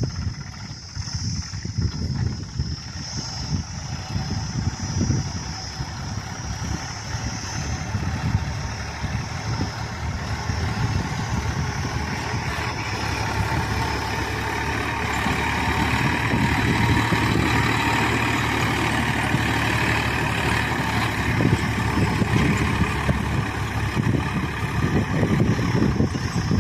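Sonalika DI-740 III tractor's diesel engine running, growing louder about halfway through and then holding steady.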